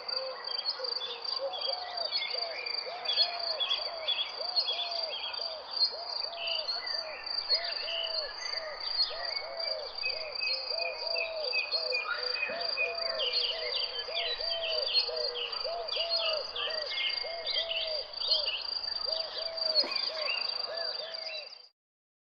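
Nature soundscape of a steady high insect trill under many quick bird chirps, with a fast series of low, arched calls repeating a few times a second. Everything cuts off suddenly near the end.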